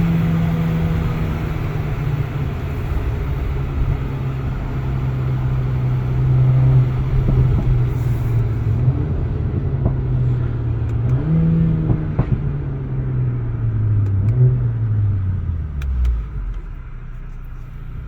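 Mercedes-AMG CLA 45 S's turbocharged 2.0-litre four-cylinder engine and stock exhaust heard from inside the cabin while driving: a steady engine note that rises briefly about twelve seconds in, then drops away as the car slows near the end. A few sharp exhaust pops crackle through the second half.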